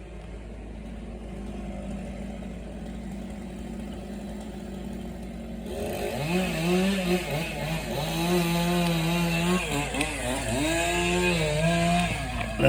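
Chainsaw cutting up an oak trunk, coming in about six seconds in with its pitch rising and falling as the throttle opens and eases off through the cut. Before that there is only a faint low hum.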